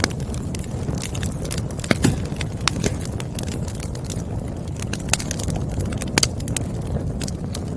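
Wood fire burning, with a steady low rumble of flames and irregular sharp pops and crackles of the burning firewood.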